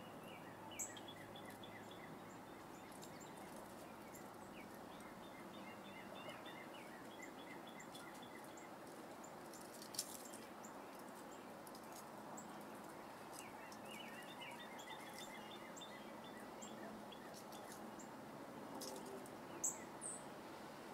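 Faint bird song: two long runs of quick, repeated short chirps over a steady background hiss, with a few sharp ticks, one about a second in, one midway and one near the end.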